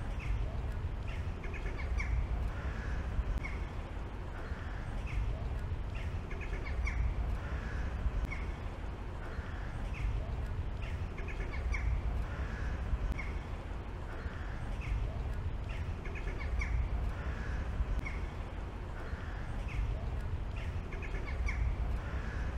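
Birds calling: short, high, crow-like calls repeating about once a second, over a steady low rumble.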